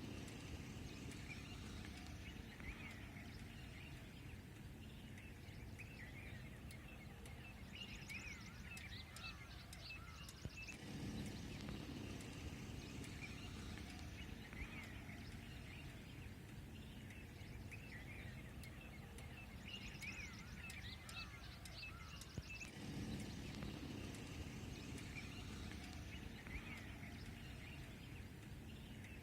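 Small birds chirping and calling over and over, over a steady low rumble of outdoor noise that shifts abruptly twice.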